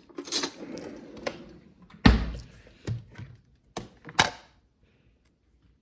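Kitchen handling sounds: a handful of knocks and clicks of containers or dishes being moved and set down, the loudest a thump about two seconds in, then quiet for the last second or so.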